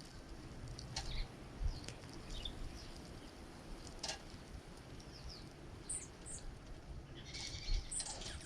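Small songbirds giving scattered short chirps and calls, with a denser cluster of calls near the end.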